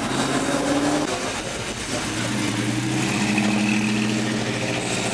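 A car engine running at a steady, low pitch that shifts slightly about two seconds in, over background crowd noise.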